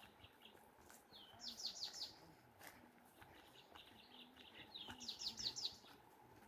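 Faint bird song: two phrases of quick falling notes, about a second in and again about five seconds in, over thin repeated chirping.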